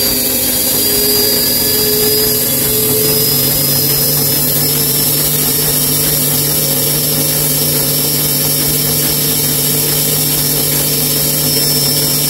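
Bosch Maxx 6 washing machine spinning at high speed: a loud, steady mechanical noise with a constant hum and a high whine. It still runs this loud after new motor bearings, which the owner takes for a broken drum.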